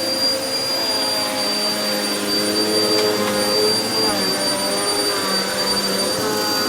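Vacuum cleaner running steadily while vacuuming carpet, with a high motor whine and lower tones that waver in pitch.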